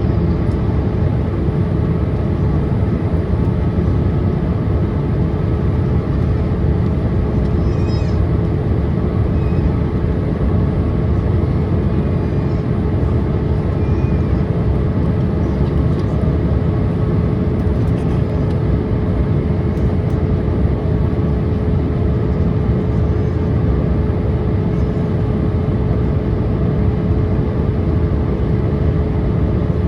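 Cabin noise inside a Boeing 787-8 airliner in descent: a steady, even roar of engines and airflow with a constant hum running through it.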